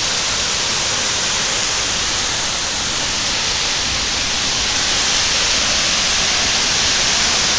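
Steady rush of the Cachoeira do Buracão waterfall: an even, unbroken hiss of falling water with no pauses or changes.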